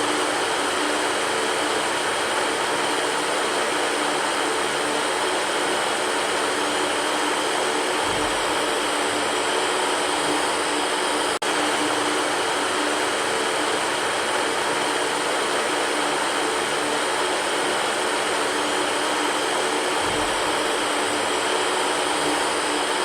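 Electric fan running steadily: an even whooshing rush of air over a low motor hum. The sound drops out for an instant about halfway through.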